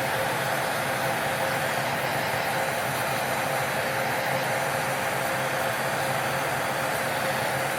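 A small electric nail-care machine running steadily with an even whirring hiss and a faint held tone.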